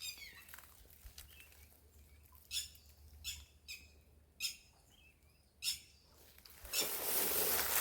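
Short, high bird chirps, one every second or so, the first falling in pitch. Near the end a loud rush of noise starts and covers them.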